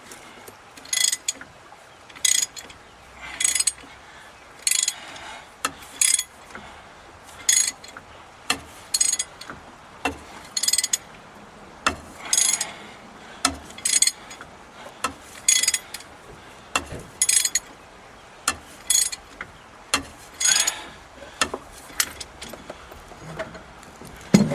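Hand ratchet wrench clicking in repeated strokes, roughly one burst of clicks a second, as a bolt that has just broken loose is backed out.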